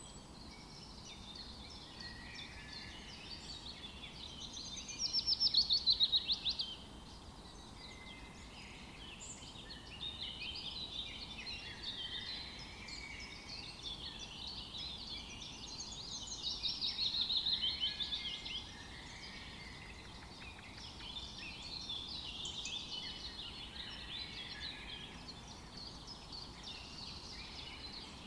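Forest birdsong: several birds chirping and singing, with a louder rapid trilled song about five seconds in and again around seventeen seconds, over a faint steady hiss.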